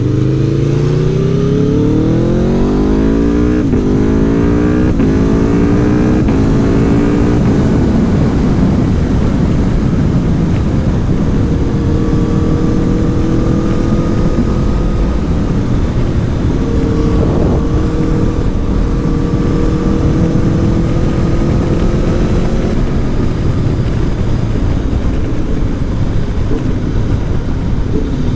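Aprilia Tuono V4 1100 Factory's V4 engine accelerating hard through several gears, the note climbing and dropping back at each upshift, then settling into a steady cruise, with wind noise throughout.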